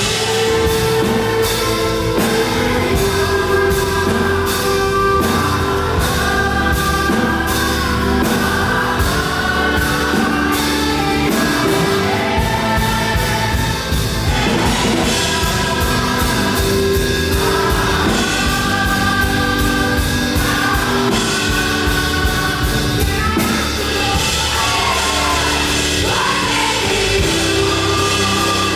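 Live up-tempo gospel worship music: singers over a full band with drum kit, bass and guitar, playing at a steady driving beat.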